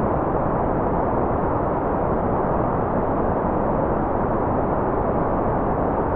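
Constant white noise: an even, unchanging rush with no rhythm or pitch, fuller in the low and middle range and dull at the top.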